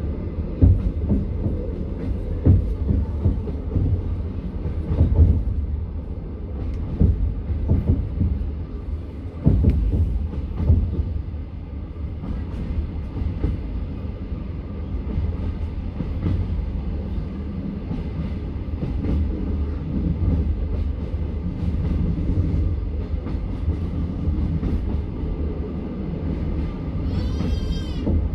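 Passenger train carriage rolling along, heard from inside: a steady low rumble with the wheels clicking over rail joints, the clicks coming thickest in the first half. A brief high, wavering squeal sounds near the end.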